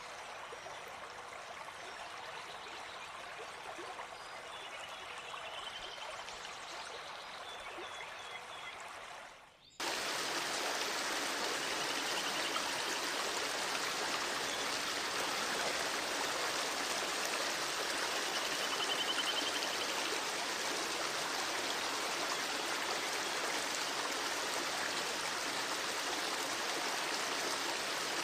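Flowing stream water, a steady rushing with a few faint high trills over it. About ten seconds in it dips briefly, then cuts to a louder, fuller stream recording.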